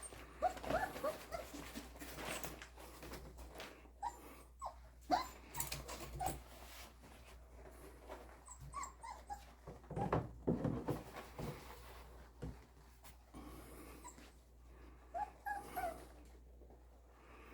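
Litter of Portuguese Water Dog puppies giving many short whines and yips, mixed with scattered clicks and knocks of scuffling paws as they play with toys.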